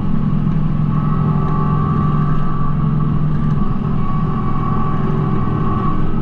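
Kubota B2650 compact tractor's three-cylinder diesel engine running steadily, with a fainter, higher whine over it.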